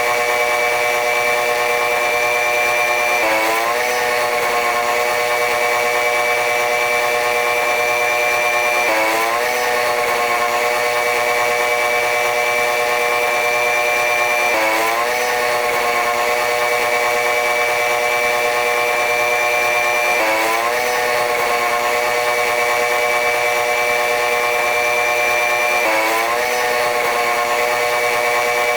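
Running noise of a train hauled by a diesel-electric locomotive: a steady, loud whining hum of several tones. A high tone creeps slowly upward and drops back about every six seconds, with a brief swooping glide at each drop.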